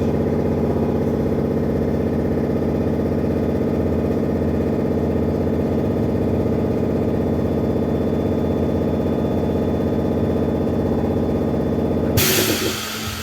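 BKM 32102 trolleybus's electric traction drive running, a steady hum made of many even tones. About twelve seconds in the drive sound drops away and a sudden sharp hiss of air breaks out.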